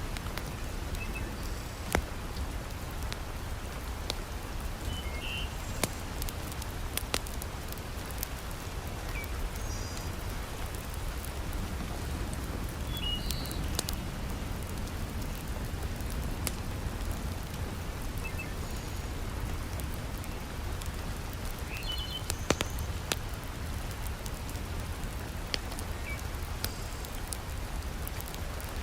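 Steady heavy rain falling, with scattered sharp crackles and pops from a wood fire in a fireplace.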